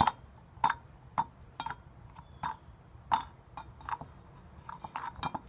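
A dozen or so light clicks and clinks at irregular spacing, about one every half second, as the small metal parts of a Kohler K301A air cleaner are handled and fitted.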